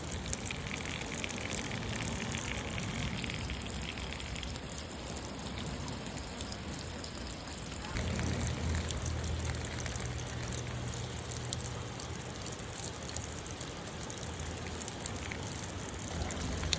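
Light rain falling, a steady patter of many small drops. About halfway a low hum underneath grows louder.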